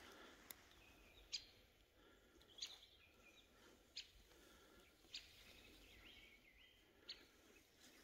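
Faint bird calls: five or six short high chirps, each a quick sweep in pitch, spaced about a second apart, over near silence.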